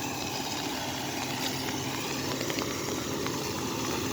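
Heavy rain pouring down: a steady hiss with scattered drop ticks, with a vehicle engine running low underneath.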